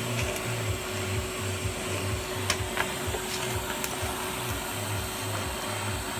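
TIG welding arc hissing steadily as filler wire is melted into a gap in a titanium muffler, with a few sharp clicks about two and a half seconds in. Music with a low beat about twice a second plays behind.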